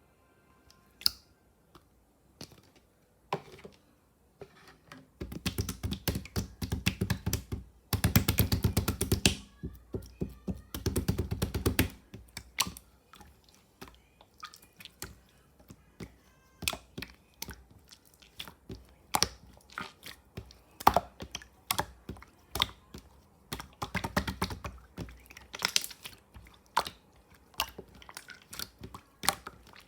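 Clear slime being squished and stirred by hand, giving sticky clicks and pops. The clicks come in quick dense runs for several seconds and then more sparsely.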